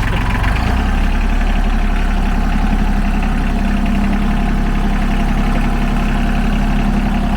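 Ford 1520 compact tractor's three-cylinder diesel engine running steadily, its note shifting slightly under a second in.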